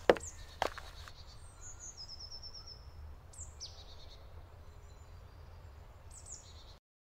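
Forest birds calling, with short high chirps and a quick trill about two seconds in, over a steady low rumble. Two sharp knocks come right at the start.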